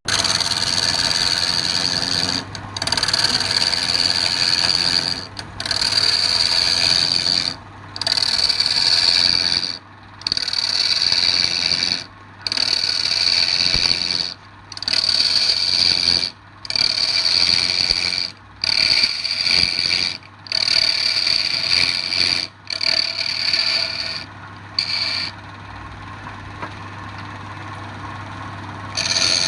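Wood lathe running with a steady motor hum while a turning tool cuts the spinning wood in repeated passes of about two seconds each, with short breaks between. Each pass carries a high ringing note. Near the end the cutting pauses for a few seconds, leaving the motor hum, then starts again.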